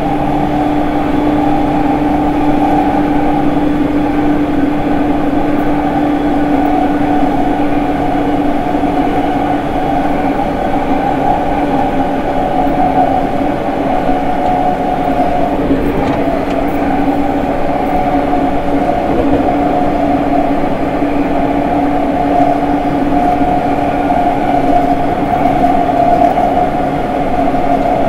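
E231 series 1000 commuter train running at a steady speed, heard over the steel gangway plates between cars. A rolling rumble carries two steady tones from the traction motors and the renewed later-type Hitachi IGBT VVVF inverter.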